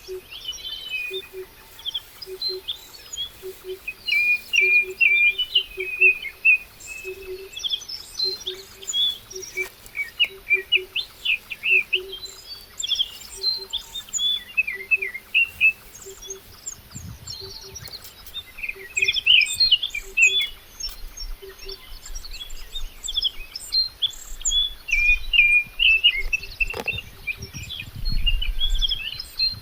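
Many small birds chirping and twittering busily in high, quick phrases. Under them a short low note repeats about twice a second for most of the stretch, and a low rumble comes near the end.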